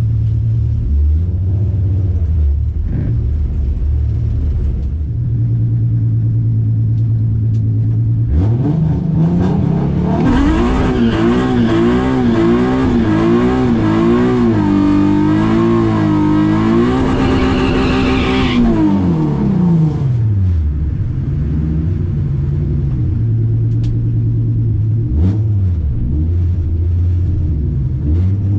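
Nissan 350Z's V6 making a full-throttle drag-strip pass, heard from inside the cabin. It idles with a few light blips, then launches about a third of the way in. The revs climb and waver for about ten seconds under a loud rushing noise. The rushing then cuts off sharply, the revs fall away as the driver lifts, and the engine settles back to a low steady run.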